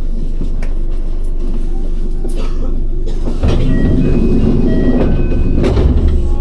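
Electric train running, a steady rumble with scattered rail clicks. About three and a half seconds in the rumble grows louder and a few short, high whining tones step between pitches.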